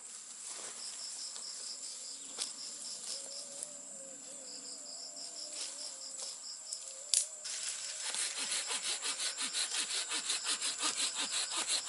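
Rainforest insects calling: a steady high-pitched drone with repeated pulsed chirps. From about eight seconds in, a saw cuts wood in quick, even strokes, about four a second.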